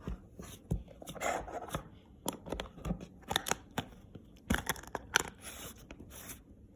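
Slime being pressed and poked into a plastic container by hand: scattered clicks, squishes and short scrapes.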